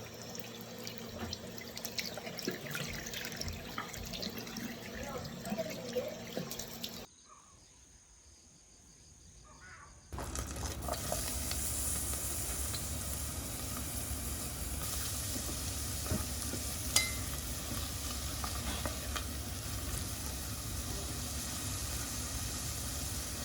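Light kitchen clatter with a few clicks, then after a brief near-silent gap a steady hiss of food sizzling in a hot pan.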